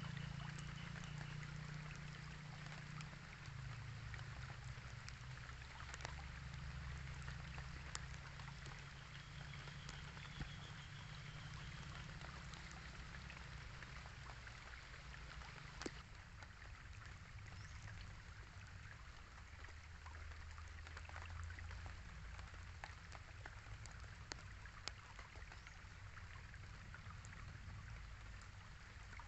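Light rain falling: a soft, even hiss dotted with many small, sharp drop ticks, a few louder ones standing out, over a low, steady rumble.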